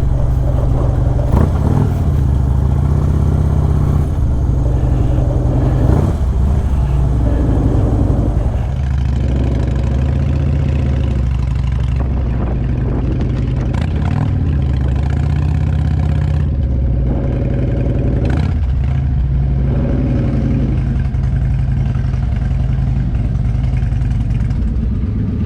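Motorcycle V-twin engine running while riding, its pitch rising and falling several times as the throttle and gears change.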